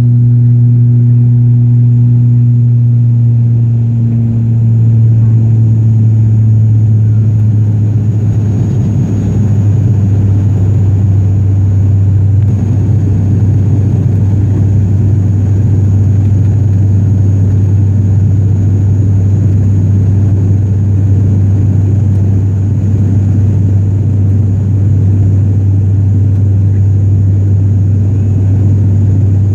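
Turboprop airliner's engines and propellers droning steadily, heard from inside the passenger cabin during departure. The low hum shifts slightly lower in pitch about four seconds in.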